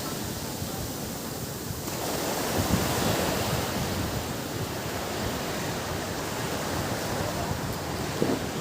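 Ocean surf washing onto a beach: a steady rush of breaking waves that swells louder about two seconds in.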